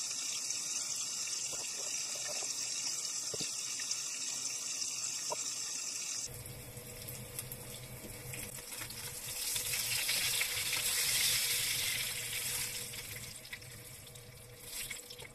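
Floured sardines sizzling in shallow oil in a frying pan: a steady high hiss. About six seconds in it cuts to a different, fuller hiss with a low hum underneath, which swells and then fades.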